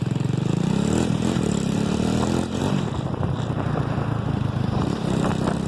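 Motorcycle engine running, its pitch rising about a second in as it revs, then holding steady.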